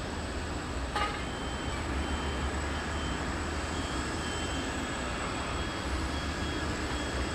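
Steady airport apron noise: a low rumble of aircraft and ground-vehicle engines under a thin, steady high whine, with faint short beeps and a single click about a second in.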